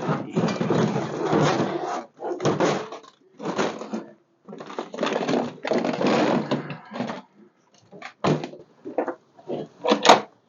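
Metal hardware being handled: irregular bursts of clanking, rattling and scraping, then a few sharp knocks, the loudest near the end.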